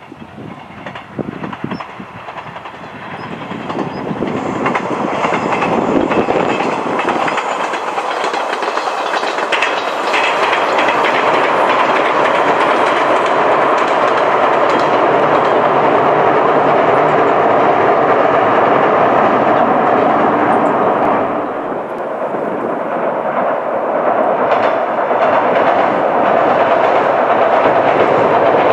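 Limited express electric train running past at speed across a steel girder bridge, wheels clattering over rail joints. The noise builds over the first several seconds, stays loud, dips briefly about two-thirds of the way through and then swells again.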